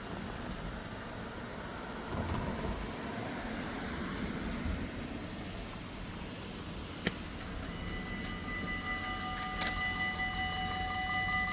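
Low, steady background rumble, then about eight seconds in the warning bells of a Dutch automatic half-barrier level crossing start ringing, a quick pulsing ring that goes on to the end.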